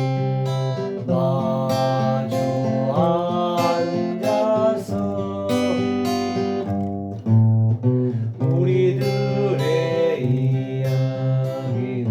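Acoustic guitar strummed in a steady rhythm, with a wavering melody line rising over the chords twice.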